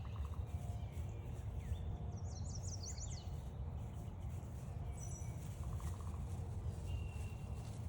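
Several songbirds singing: a quick run of high, zigzagging notes about two seconds in, then a short high note and a thin, level whistle later on. A steady low rumble runs underneath.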